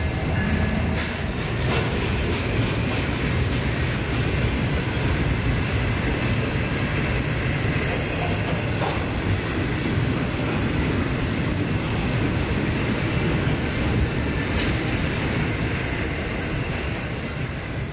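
N scale DCC model train running past, a steady rumble and clatter of the train on the track, easing off near the end.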